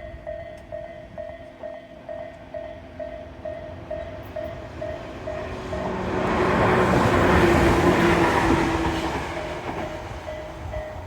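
Japanese level-crossing alarm bell ringing about twice a second as a Tobu Railway train approaches and passes. The train's running noise builds about halfway through, is loudest for a couple of seconds and drowns the bell, then fades as the bell comes back.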